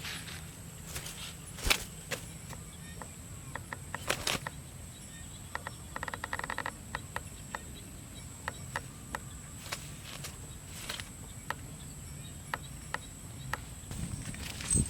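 Outdoor ambience: a steady high insect drone, with scattered sharp clicks and taps and a short rapid buzzing rattle about six seconds in.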